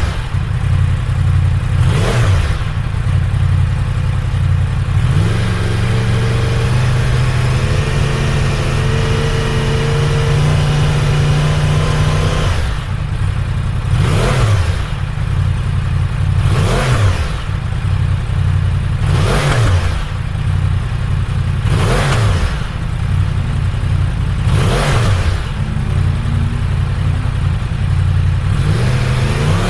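Yamaha R1 inline-four engine through an aftermarket exhaust, blipped in sharp revs that rise and fall quickly. Near the middle it holds revs for several seconds, climbing slowly. Then comes a series of quick blips about every two and a half seconds.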